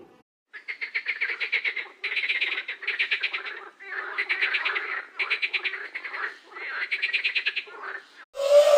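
Animal call of rapid rattling pulses, croak-like, in bursts about a second long repeated with short gaps. Near the end a louder call with falling pitch cuts in.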